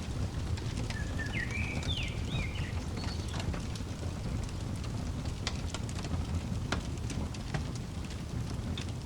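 Wood fire crackling, with scattered sharp pops over a steady low rumble. A bird calls briefly about a second in, a few quick notes that rise and fall.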